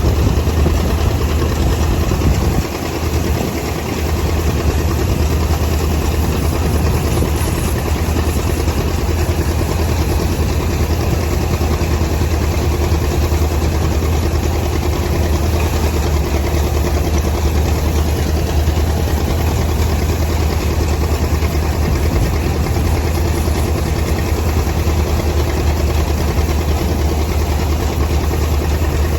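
Tractor engine running steadily at a constant speed, with a deep, unbroken hum; the loudness dips briefly about two and a half seconds in.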